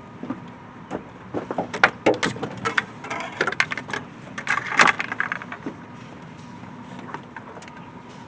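Clicks, knocks and rustling of a K&N air filter being handled and test-fitted onto the intake, in a busy cluster from about one to six seconds in.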